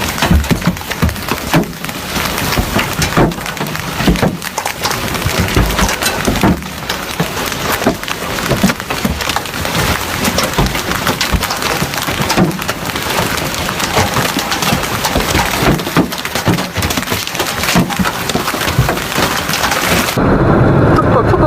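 Storm noise: a dense hiss of heavy rain with many sharp knocks and hits mixed through it. It cuts off suddenly near the end.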